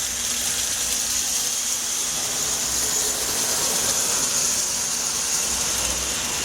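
Marx toy train locomotive running steadily around its track: the continuous mechanical whir of its rebuilt electric motor and gears.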